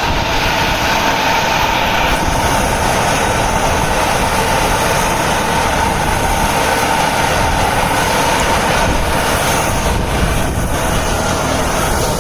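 Kubota B2741 compact tractor's three-cylinder diesel engine running steadily.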